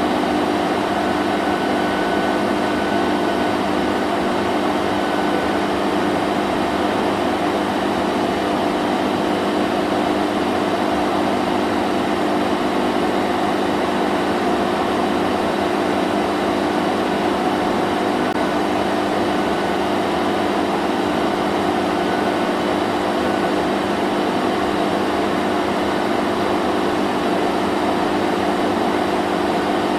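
Vacuum cleaner running steadily, a continuous rushing hum with a constant motor tone.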